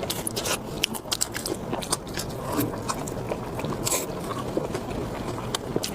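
Close-miked eating sounds: a person biting and chewing food with a dense run of sharp, irregular wet clicks and smacks from the mouth.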